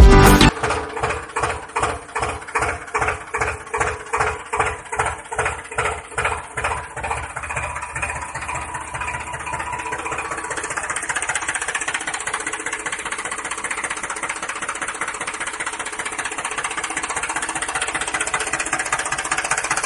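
An engine chugging in slow, even thumps, a little over two a second, that quicken and merge into a steady running sound after about eight seconds.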